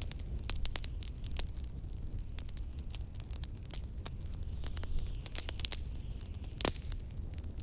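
Wood fire crackling in a fireplace, with quick irregular pops and one louder pop near the end, over a steady low rumble of blizzard wind.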